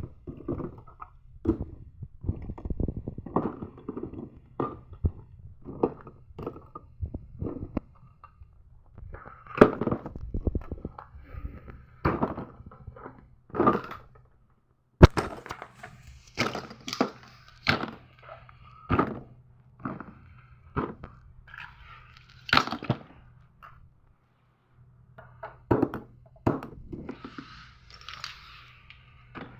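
Small objects, likely fidget toys, being handled and set down as a bin is sorted: irregular knocks and taps, with a sharp click about halfway through and some rustling and scraping near the end.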